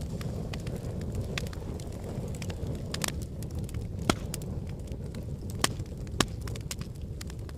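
Wood fire burning in a fireplace: a steady low rumble of flames with scattered crackles and a few sharper pops of burning logs.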